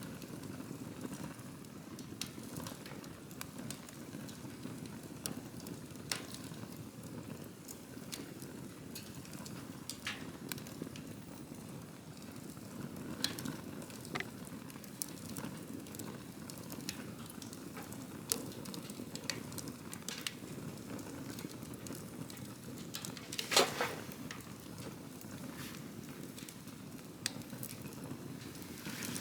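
Wood campfire burning: a steady low rush of flames with scattered crackles and pops, and one louder burst of pops late on.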